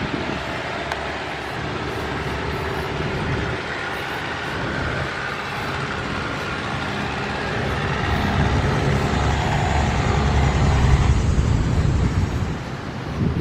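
A motor vehicle engine running, with a low rumble that swells over the second half and falls away near the end.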